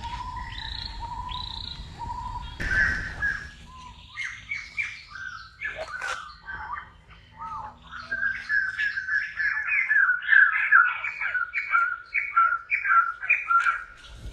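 Birds chirping and calling: a wavering, repeated call at first, then scattered short chirps that build about halfway through into a fast, busy run of calls.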